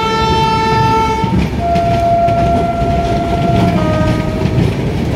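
Steady rumble of trains running on the rails as two trains pass each other on adjacent tracks. A train horn sounds until about a second in, then a fainter horn tone follows and steps lower in pitch near the end.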